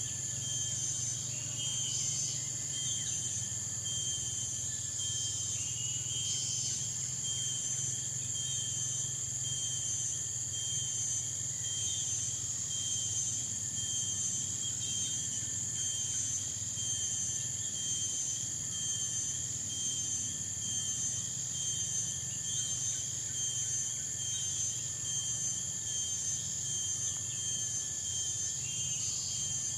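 Tropical forest insect chorus: a steady high-pitched shrill trilling with a rapidly pulsing chirp beneath it, over a low hum. A few brief higher calls cut in, about two and six seconds in and again near the end.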